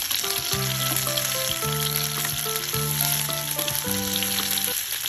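Chicken wings sizzling as they fry in oil in a nonstick pan, turned over with metal tongs. Background music of long held notes plays over the steady sizzle, stopping shortly before the end.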